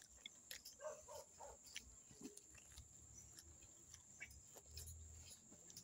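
Near silence: faint mouth clicks from someone eating, over a steady faint high-pitched whine.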